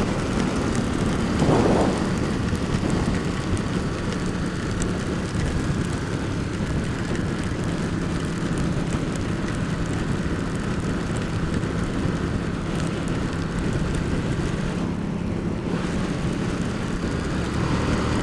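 Ducati XDiavel's 1262 cc Testastretta DVT L-twin engine running steadily at cruising speed, under a rush of wind and rain noise on the microphone. The engine note swells briefly about a second and a half in.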